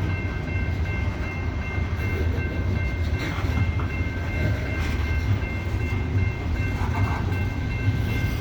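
Loaded coal train's hopper cars rolling slowly past on an upgrade: a steady low rumble with a thin, steady high squeal over it and a few faint knocks.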